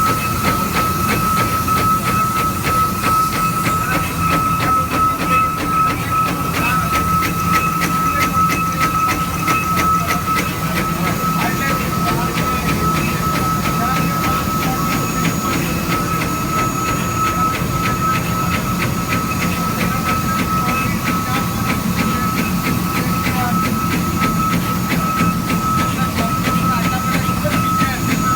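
Eight-spindle CNC machine running steadily, with a constant high whine over a low mechanical rumble and a fast, even clicking.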